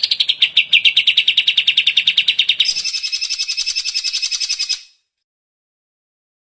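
Cucak ijo (greater green leafbird) singing a fast, even trill of about a dozen notes a second, which jumps to a higher pitch partway through and stops a little before 5 seconds in.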